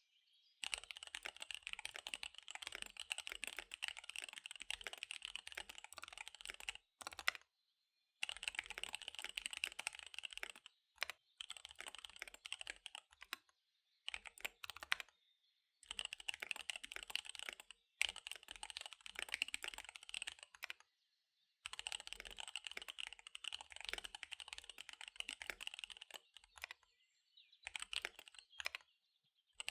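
Fast typing on a KBD75 V3 mechanical keyboard with SP-Star Dark Magic Girl tactile switches and DSA keycaps: rapid runs of keystrokes, some several seconds long, broken by short pauses.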